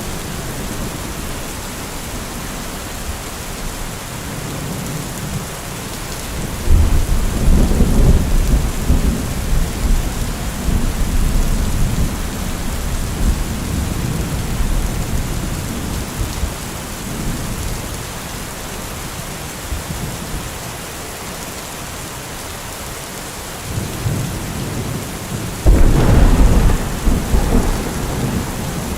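Steady rain, with thunder rumbling twice: once starting suddenly about seven seconds in and dying away over several seconds, and again near the end.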